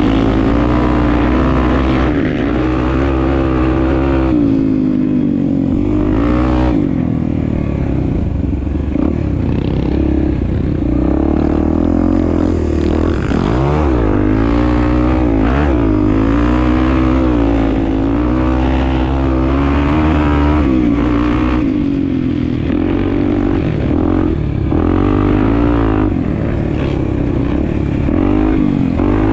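Honda Tornado 250 enduro motorcycle's single-cylinder four-stroke engine running under way. The revs keep rising and falling as it is ridden.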